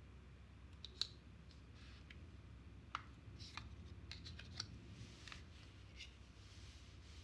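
Close-up handling of an iPhone 13 Pro and its packaging: scattered small clicks and taps, the sharpest about one and three seconds in, with soft rustles and scrapes of paper, plastic and card in between.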